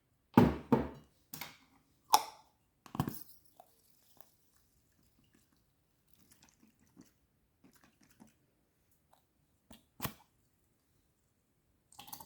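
Wood fire crackling in a fireplace: a quick run of sharp pops and snaps in the first three seconds, then sparse faint ticks, with one louder pop about ten seconds in.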